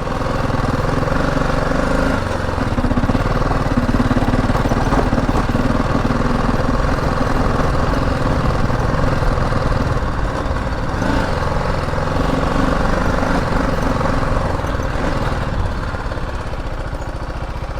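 BMW G 310 GS's single-cylinder engine running steadily as the motorcycle is ridden slowly, its note shifting a little about two-thirds of the way through.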